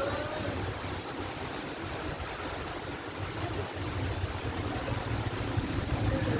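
Heavy rain pouring down, a steady hiss of water, with wind buffeting the microphone as a low, uneven rumble.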